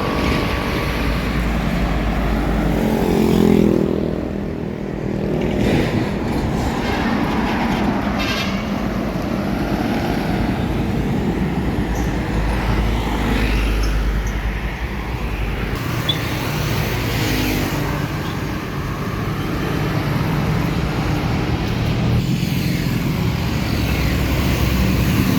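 Road traffic with trucks passing close by, engines running over steady tyre and road noise; an engine note rises and swells past about three seconds in.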